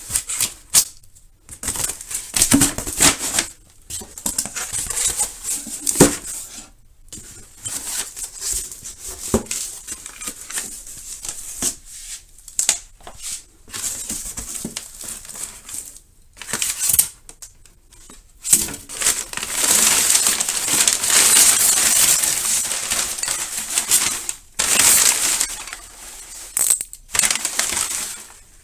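Hands working on a rugged laptop-tablet at a repair bench: irregular clicks, taps and scraping of hard plastic and metal, with a longer stretch of continuous scraping and rustling about two-thirds of the way in.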